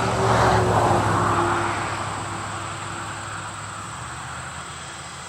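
A vehicle passing by: its noise swells to a peak about a second in and then fades away, with a humming tone that drops slightly in pitch as it goes. Crickets chirr steadily underneath.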